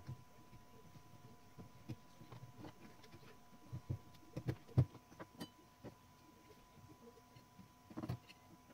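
Light, irregular clicks and taps of small metal typewriter parts being handled and fitted during reassembly, with a cluster of knocks about halfway through and another near the end, over a faint steady high hum.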